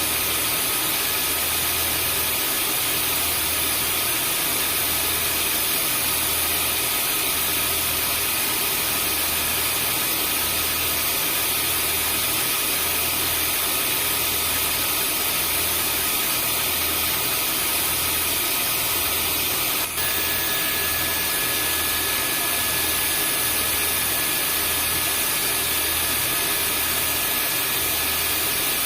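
Vacuum cleaner running continuously: a steady rushing hiss of air with a motor whine, over a low throb that pulses about once a second. About two-thirds of the way in the sound breaks off for an instant and a new whine tone comes in.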